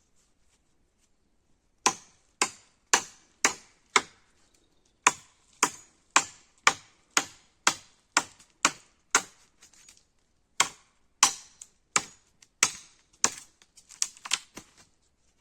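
Repeated sharp strikes of a hand tool, about two a second, with a short pause near the middle and quicker, lighter strikes near the end.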